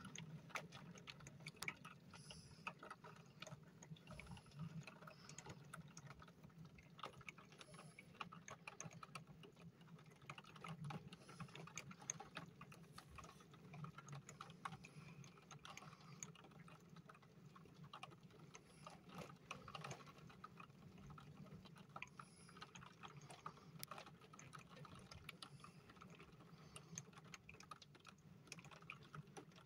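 Faint, scattered ticking of light raindrops, irregular and sparse, over a low steady hum.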